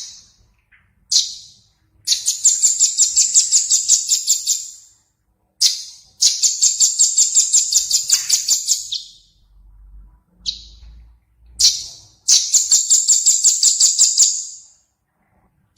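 A small songbird singing: short single sharp notes alternating with three fast, high-pitched trills. Each trill is about three seconds of evenly repeated notes at roughly seven a second.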